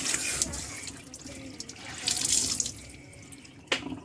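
Water running from a tap into a sink with splashing, fading away in the last second, then a single sharp click near the end.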